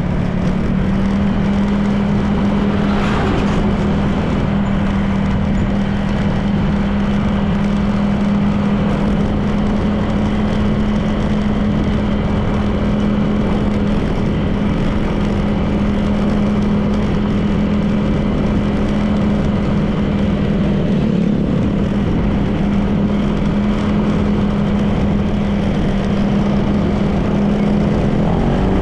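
Honda PCX 160 scooter's single-cylinder engine running at a steady cruise, with wind and road noise.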